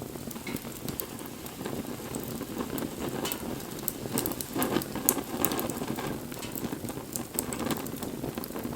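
Wood fire burning: a steady rush of flames with frequent sharp crackles and pops, busier and louder for a stretch about halfway through.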